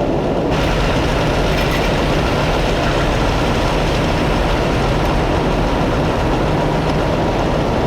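A heavy engine idling steadily under a constant hiss, which grows brighter about half a second in.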